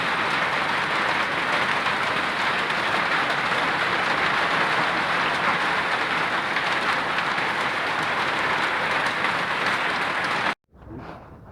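Hailstorm: hail and heavy rain pelting down in a dense, steady clatter. It cuts off abruptly near the end, leaving much quieter sounds.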